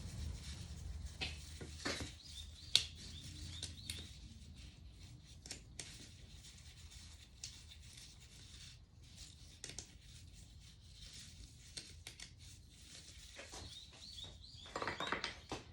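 Scattered light metallic clicks and taps of hand tools and small parts being handled while a Honda Dax engine is taken apart, the sharpest click about three seconds in and a busier run of clicks near the end.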